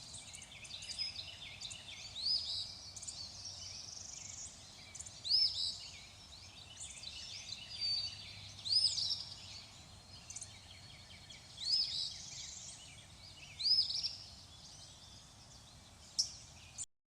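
Birds chirping and calling, with a louder high, arched call every two to three seconds over a faint steady hiss. The sound cuts off abruptly near the end.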